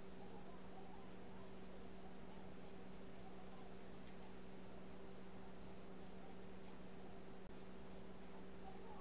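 Paintbrush working gouache onto paper: faint, irregular short scratches and dabs, over a steady low hum.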